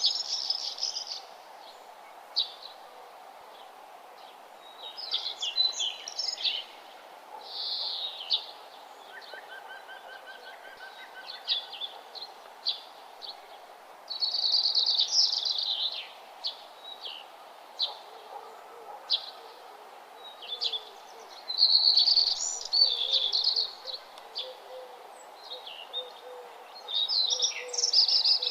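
Birds singing and chirping: short, high song phrases and quick chirps come every second or two, with louder bursts of song, over a steady background hiss.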